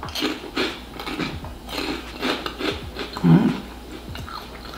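Close-up mouth sounds of someone crunching and chewing a light, puffed onion-ring snack: irregular crisp crunches that soon soften as the piece dissolves, with a short closed-mouth hum about three seconds in.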